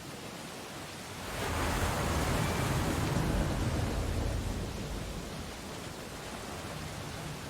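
Ocean waves washing onto a beach: a wave breaks about a second in, swells for a couple of seconds and slowly washes back out, over a steady hiss of surf.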